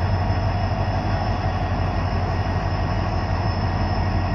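Passenger train rolling slowly past, a steady rumble with a low hum underneath.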